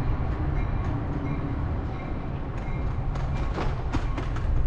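A passenger train running past with a steady low rumble, and a run of clattering clicks about three seconds in, heard from a moving bicycle.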